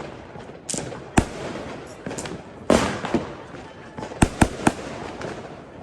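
New Year's Eve fireworks and firecrackers going off: about half a dozen sharp bangs, three in quick succession about four seconds in, over steady crackling and scattered smaller pops.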